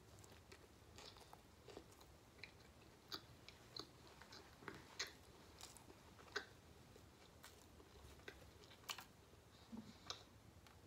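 A person chewing a mouthful of blackened mahi-mahi sandwich, picked up close: faint, irregular soft mouth clicks.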